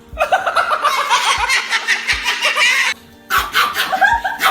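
Background music with a steady beat under two bursts of giggling laughter with a short break between them.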